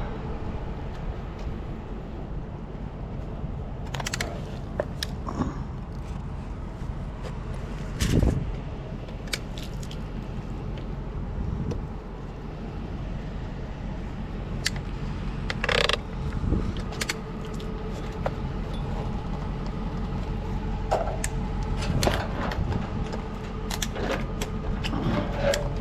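Pickup truck driving, with a steady engine and road rumble and intermittent rattles and clinks from loose items or keys.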